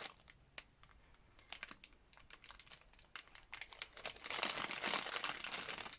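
Dry rustling and crinkling with scattered light ticks as silk cocoons are handled and pulled apart, with a denser, longer rustle about four seconds in.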